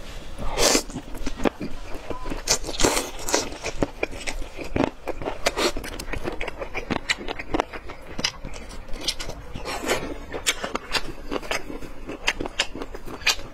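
Close-up biting and chewing of boneless chicken feet in a sour-spicy sauce: a steady run of irregular clicks and smacks from the mouth.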